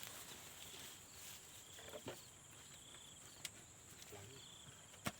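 Faint insect chorus: a steady high buzz with a short pulsed chirp repeating about every second and a half. A few sharp clicks, the loudest just before the end.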